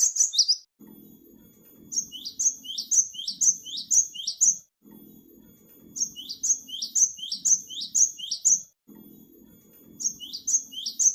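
Cinereous tit (gelatik batu) calling: three runs of quick, high, downward-sweeping notes, about two or three notes a second, each run lasting a few seconds.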